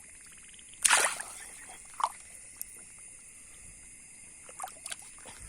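Water splashing in shallow water as a hand fishing spear is worked: a loud splash about a second in and a smaller one a second later. A steady high insect trill runs underneath.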